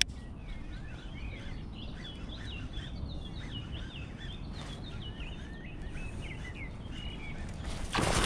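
A songbird sings repeated short chirping phrases over a low, steady background rumble. Near the end comes a sudden splash as an asp strikes the lure at the surface.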